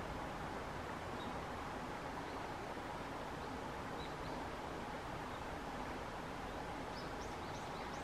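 Faint, high chirps of small birds: a few single notes in the first half, then a quick run of short rising notes near the end, over a steady rushing background noise.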